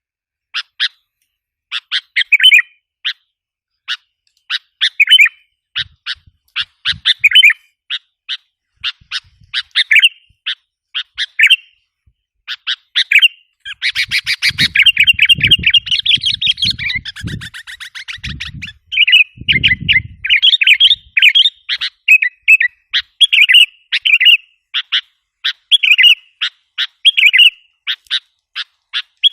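Sooty-headed bulbul calls used as a lure: short chirping phrases repeated at intervals, breaking into a dense run of rapid, agitated chattering about halfway through before returning to the separate phrases.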